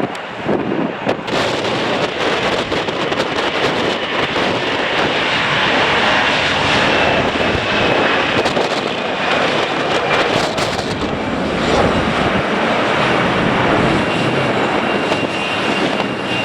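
Jet airliner's engines running loud, with a high whine that drops slightly in pitch midway, as the plane passes near the runway. Gusty wind buffets the microphone throughout.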